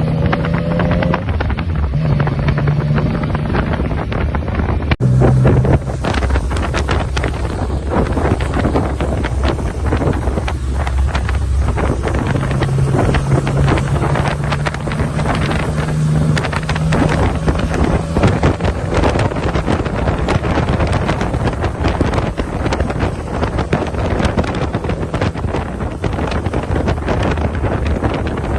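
Vehicle engine hum on the move, with heavy wind buffeting the microphone.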